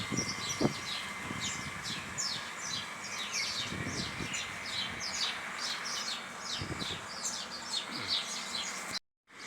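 Many small birds chirping, a dense run of short, high, falling chirps over a steady background hiss, with a few low thumps. The sound cuts out for a moment near the end.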